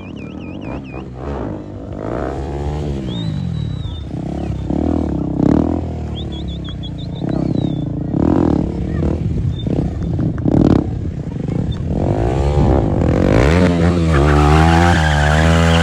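Stunt motorcycle engine revved up and down again and again in short blips. Near the end it climbs and is held at high revs.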